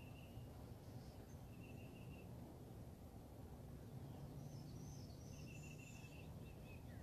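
Faint wild birds calling: a short trilled phrase repeated every second or two, with a cluster of higher chirps about four to six seconds in, over a low steady background rumble.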